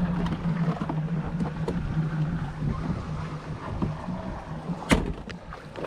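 A watercraft engine idling with a steady low hum, over water and wind noise. A single sharp knock stands out about five seconds in.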